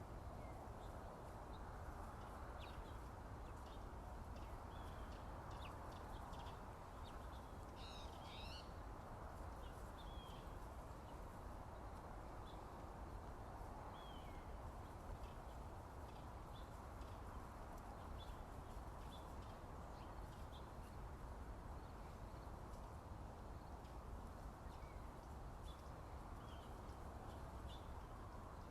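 Faint morning birdsong: many short, scattered chirps and calls from several birds, with a louder burst of calls about eight seconds in, over a steady background rush.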